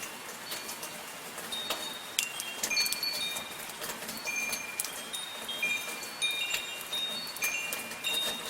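Metal wind chimes ringing, their tubes struck irregularly by the wind in clear high tones that overlap and fade, over the steady hiss of soft falling rain.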